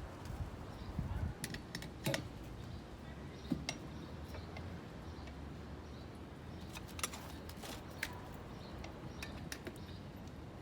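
Irregular light clicks and taps of hand work on a motorcycle wheel: tools and the tire knocking against the metal rim while the tube-type tire is worked on, over a low steady hum.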